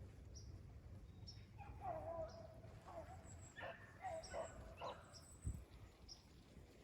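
Faint barking of a pack of rabbit-hunting dogs running a rabbit, a string of short barks with a longer, wavering drawn-out cry about two seconds in.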